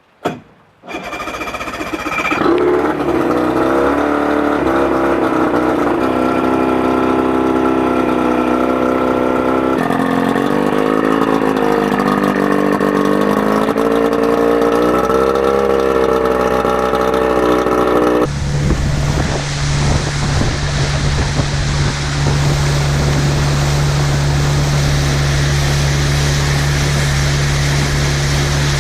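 Boat engine of a 1956 Lyman being cold-started with the choke held: a click, a brief crank, and it catches within a couple of seconds and runs at a fast idle, its pitch wavering. About 18 seconds in the sound changes abruptly to a steady lower drone with a rushing hiss.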